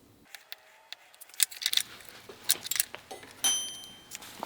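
Small metal marking tools handled on wood at a workbench: a run of sharp clicks and short scrapes, with a metal piece ringing briefly about three and a half seconds in.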